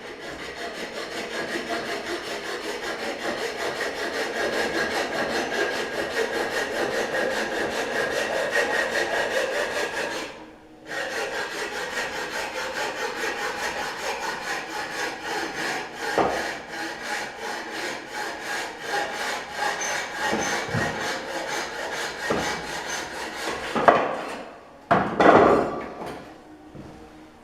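Hand saw cutting through a gypsum decorative stone tile with rapid back-and-forth strokes. The sawing stops briefly about ten seconds in, then resumes, and there are a few louder scrapes near the end as the cut finishes.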